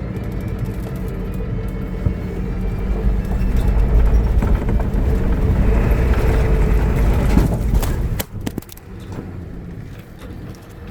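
A vehicle engine pulling the vehicle through a shallow creek crossing, with rushing water and tyre noise swelling in the middle. The engine and water noise drop away sharply about eight seconds in, leaving lighter rattles as the vehicle climbs out.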